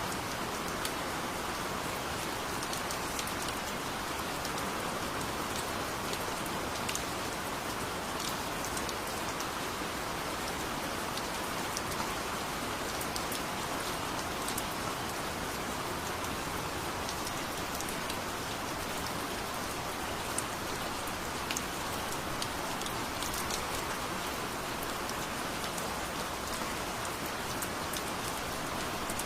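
Heavy rain falling steadily, with individual drops ticking close by.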